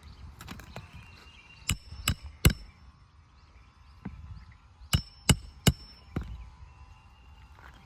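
Hammer striking a roof snake to drive roofing nails under an old asphalt shingle: three quick sharp blows a couple of seconds in, three more about three seconds later, then one lighter knock.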